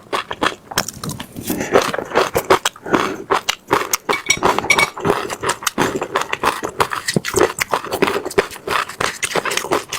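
Close-miked mouth chewing: passion fruit seeds crunching and cracking between the teeth, a dense, irregular run of crisp crunches.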